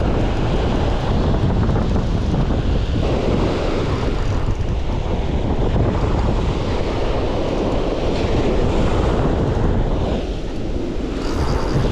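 Strong wind buffeting the microphone, over the wash of ocean surf on the beach.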